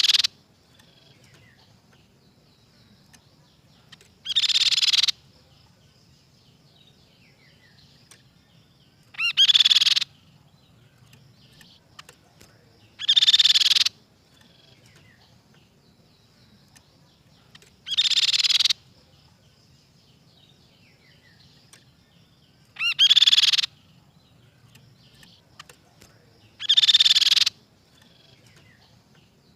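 Crescent-chested babbler (tepus pipi perak) singing: a loud, short song phrase repeated seven times, about every four to five seconds, with faint chirps in between.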